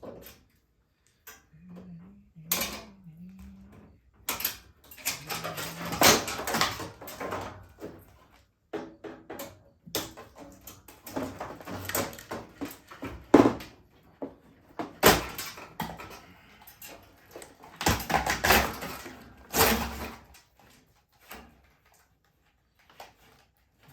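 Irregular knocks, clicks and rattling from the metal and plastic parts of a front-load washing machine being handled and pulled apart, in bursts with short pauses between them.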